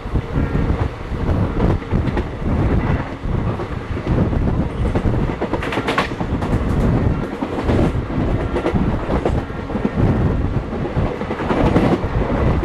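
Passenger train running at speed, heard from on board: a steady rumble of wheels on the rails with clickety-clack and sharp knocks about six seconds in and near the end, as the wheels pass over rail joints.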